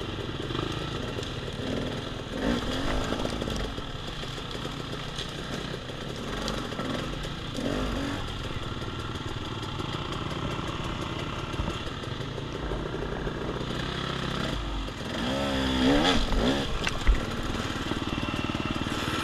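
Off-road dirt bike engine running at low trail speed, the revs rising and falling several times, with a bigger burst of revs near the end. A single sharp knock comes just after it.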